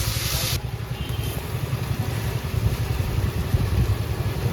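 Loud hiss of frying oil that cuts off about half a second in, over a steady low, fluttering engine-like rumble.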